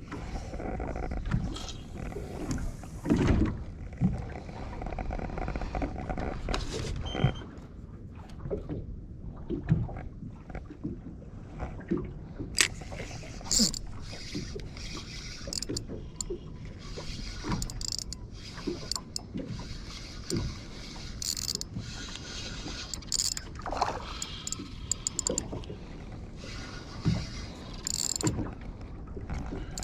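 Water slapping and splashing against the hull of a small fishing boat adrift at sea, with irregular knocks and splashes over a steady low rumble of wind and sea.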